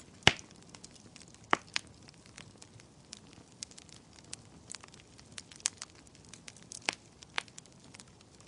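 Wood fire crackling in a fireplace: irregular sharp pops and snaps over a soft hiss, with the loudest pop just after the start.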